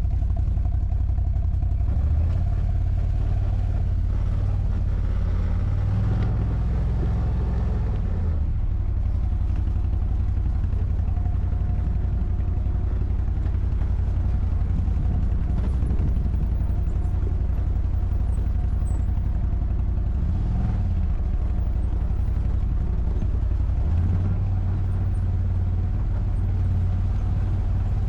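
ATV engine running while riding, its note rising and falling several times as the throttle changes.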